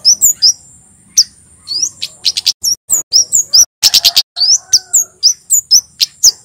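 Male Javan kemade flowerpecker singing: a fast string of sharp, very high chips mixed with short rising whistled notes, in quick bursts. A steady thin high tone runs beneath it and stops near the end.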